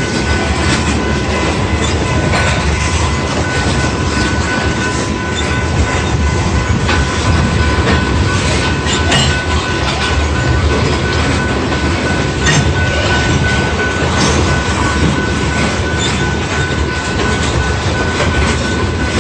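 Train cars rolling steadily past, wheels clacking over the rails with a steady high-pitched wheel squeal over the rumble.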